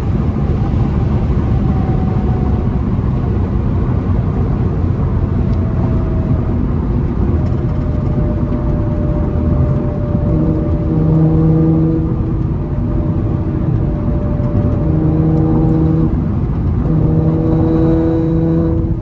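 Cabin noise of an Infiniti Q50 3.0t cruising at highway speed: steady road and engine noise, with an engine drone that comes and goes in the second half.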